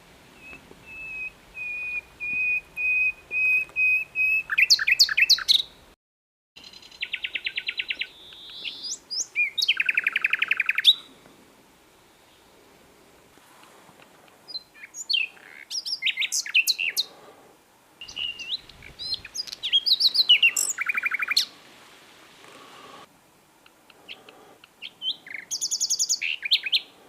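Common nightingale singing in separate phrases a few seconds apart. The first is a run of repeated whistled notes on one pitch that grows steadily louder; the others are fast trills, quick rising and falling whistles and a buzzy rattle.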